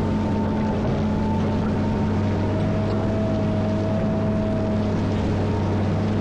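Diesel engine of a CAT 140M motor grader running steadily, with a low, even hum and a thin whine above it that wavers slightly in pitch.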